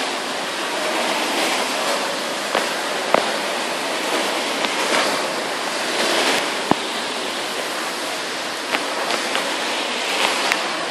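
Heavy thunderstorm rain pouring down in a steady hiss, with a few sharp clicks scattered through it.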